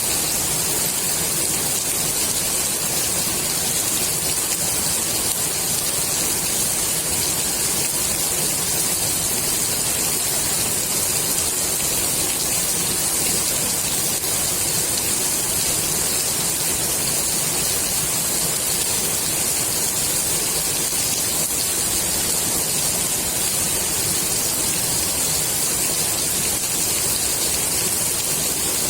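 Steady rain falling on the water of a swimming pool, an even hiss of countless drops.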